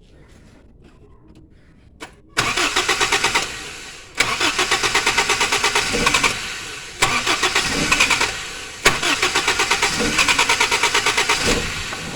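Toyota Kijang engine being cranked by the starter in four long attempts, each a fast, even pulsing that dies away without settling into an idle. The mechanics put the failure to start down to fuel flooding and a weak battery.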